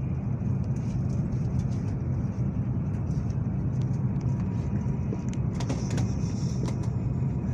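Steady low rumble of a Shinkansen bullet train running, heard from inside the passenger car, with a few faint clicks about six seconds in.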